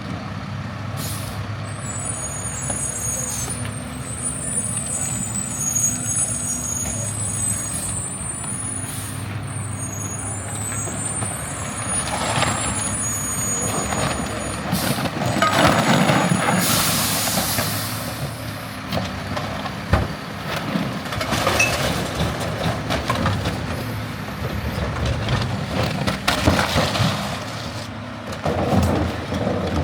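Garbage truck's diesel engine running steadily, with a high squealing for the first ten seconds or so. A loud air-brake hiss comes about halfway through, and knocks and clatters follow.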